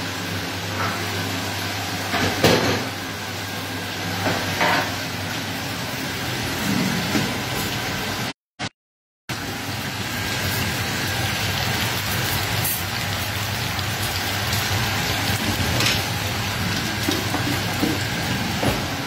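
Breaded chicken fillets deep-frying in hot oil in a pan, a steady sizzle with a low hum under it and a few knocks in the first five seconds. The sound cuts out completely for under a second about eight and a half seconds in.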